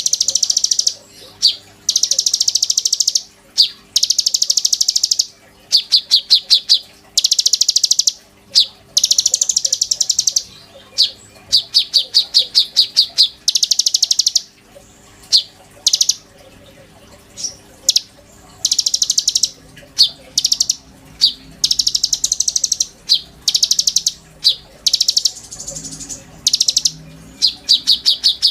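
A konin songbird singing in loud, rapid high-pitched chattering bursts, each a fast train of notes lasting a second or two, repeated over and over with short pauses.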